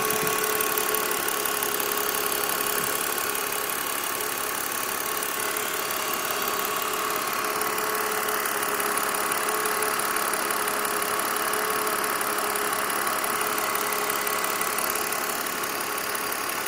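BMW E46 engine running steadily at idle with an engine noise that the owner suspects is the lifters; the DISA valve has been checked and ruled out.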